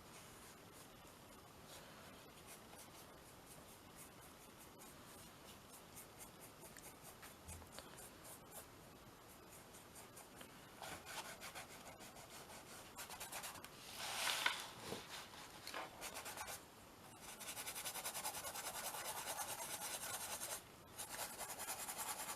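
A paintbrush scrubbing paint onto a canvas. The strokes are faint at first, then from about halfway they turn into quick, repeated, scratchy rubbing strokes that get louder and denser near the end.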